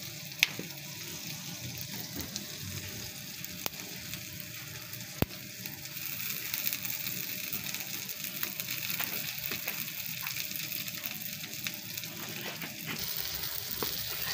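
Chicken keema sizzling steadily on a hot tawa, with a few sharp clicks. Near the end a spatula starts stirring it on the pan.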